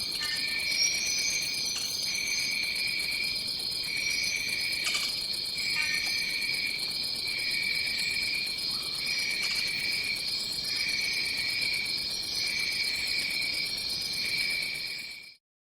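Chorus of tropical insects, such as crickets or katydids: a steady high-pitched drone with a second, lower trill that pulses on and off about once a second. It cuts off abruptly into silence near the end.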